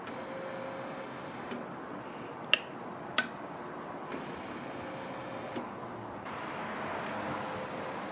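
Small electric motor whining in short runs, starting and stopping twice, with two sharp clicks between its runs.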